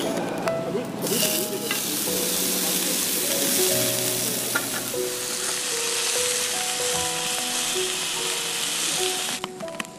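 Food sizzling in a hot pan: a steady, dense hiss that starts abruptly about a second in and cuts off near the end, over background music.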